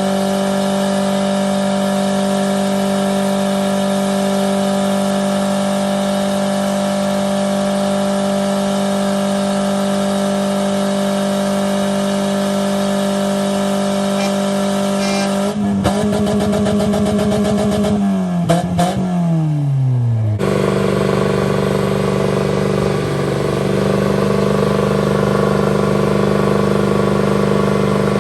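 Truck engine held at steady high revs. A little past halfway the revs fall away and waver for a few seconds, then climb back and hold high again.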